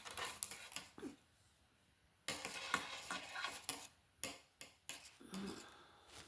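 Light clicking and clattering of knitting needles, with some rustling, as a knitting project on its needles is handled: a run of sharp taps, then a busier stretch of clicks in the middle, then a few more single clicks.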